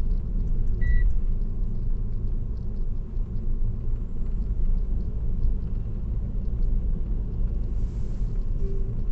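Steady low rumble of road and tyre noise from a car cruising on an expressway, with a brief high beep about a second in.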